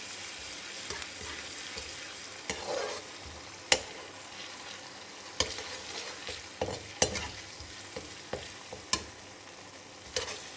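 Chopped onion, green chillies and ginger-garlic paste sizzling in oil in a kadai, with a spatula scraping and tapping against the pan at irregular intervals as it is stirred. This is the onion base frying before beaten eggs are added.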